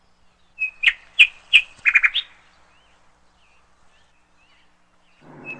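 Birds chirping: a run of short, sharp, high chirps about a second in, ending in a quick trill, then a few faint chirps, and another run of chirps starting near the end.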